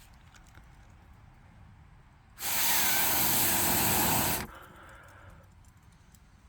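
Air blown hard into glowing campfire embers: a loud hissing rush about two seconds long that starts a little over two seconds in and cuts off sharply. A softer rush from the flaring fire trails on for about a second, and faint crackles from the embers come before it.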